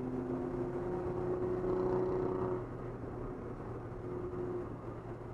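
Nissan 300ZX Z32's twin-turbo V6 running at speed, heard from inside the cabin over road and tyre noise. The steady engine note grows louder up to about two and a half seconds in, then drops and stays quieter.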